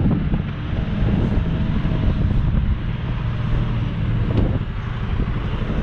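Semi truck's diesel engine running with a steady low hum, with a couple of brief knocks, one at the start and one about four seconds in.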